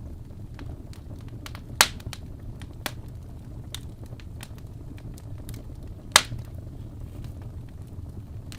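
Wood fire crackling in a fireplace over a steady low rumble, with two sharp pops, about two seconds in and about six seconds in, and fainter snaps between.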